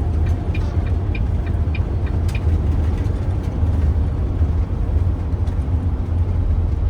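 Tractor-trailer's engine running with a steady low rumble heard from inside the cab as the truck slows on an exit ramp. For the first couple of seconds the turn signal ticks a little under twice a second.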